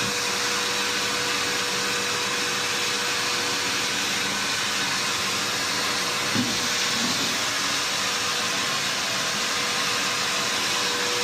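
Vacuum cleaner running steadily, an even whooshing noise with a constant motor whine.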